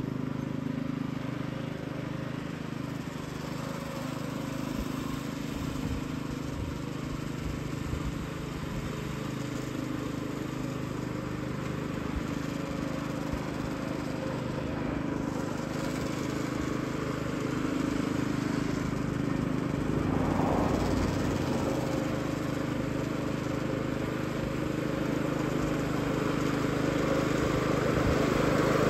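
Petrol reel mower engine running steadily, growing louder over the last few seconds.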